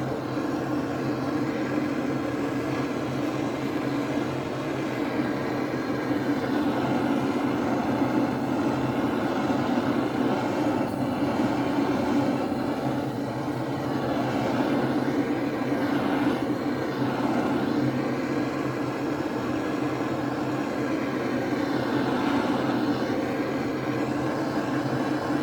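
Heat gun running steadily, a constant rush of air over a low motor hum, warming the crankcase around the front main bearing support to about 80–100 degrees so the support can be fitted.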